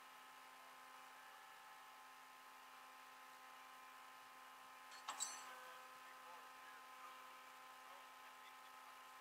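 Near silence with a faint steady hum. About five seconds in there is a single short, sharp click that rings briefly.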